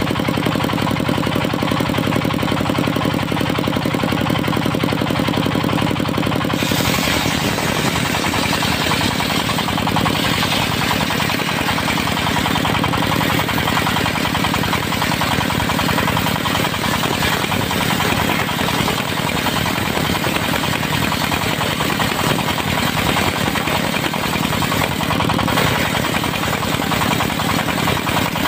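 Diesel engine of a circular sawmill running steadily with a rapid knock. About six seconds in, a loud hiss joins it and continues, as the spinning blade cuts into dry teak.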